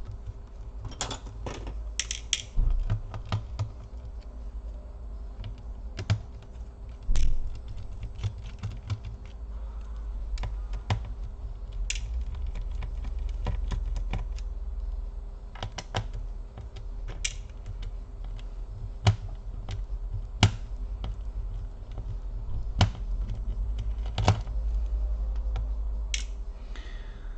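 Scattered, irregular small clicks and taps of a precision screwdriver working out the screws of a laptop's bottom cover, over a low steady hum.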